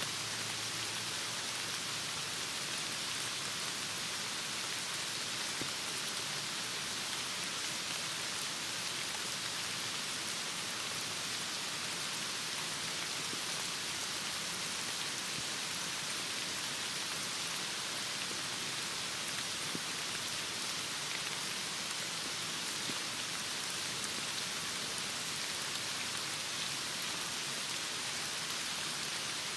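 Heavy rain falling steadily, an even hiss with no breaks or swells.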